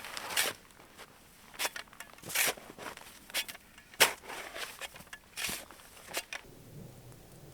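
Footsteps in snow: about eight uneven, crunching steps, roughly one a second.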